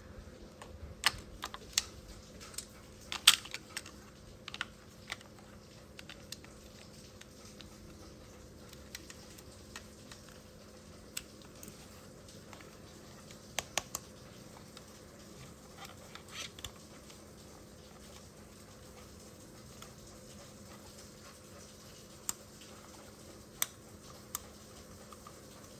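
Scattered light clicks and taps, irregular and a few sharper than the rest, over a faint steady hum.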